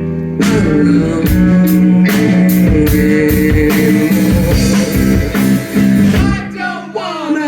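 Live indie rock band playing: guitars, bass and drum kit with steady drum hits. About six seconds in the drums stop and a guitar note bends downward as the music thins out.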